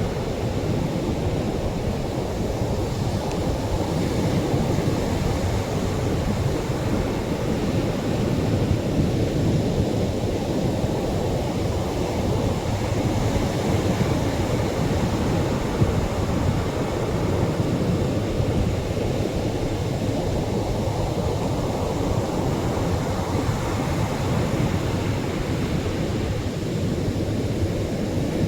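Gentle Atlantic surf breaking and washing on the shore: a steady, deep rushing wash that swells and eases every several seconds.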